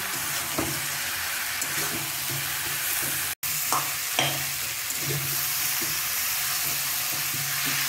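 Raw jackfruit chunks with tomato and ginger-garlic sizzling in oil in a kadai while a metal spatula stirs and scrapes them, a scrape every second or so over a steady sizzle. This is the sautéing (kashano) stage of cooking the jackfruit.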